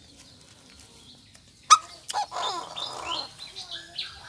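Bird calling: a run of short chirps after a sharp knock about two seconds in.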